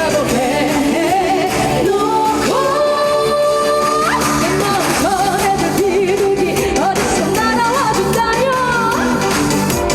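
Trot song sung live over a band backing track: the singer holds notes with a wide vibrato, with one long held note a few seconds in that breaks upward at its end.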